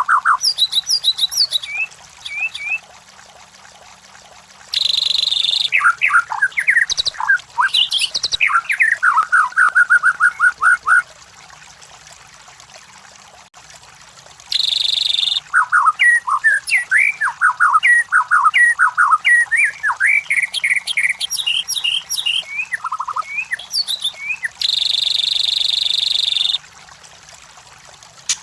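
White-rumped shama singing: bouts of quick, varied whistled phrases and rapid notes, broken three times by a short harsh buzzing note, with pauses of a few seconds between bouts.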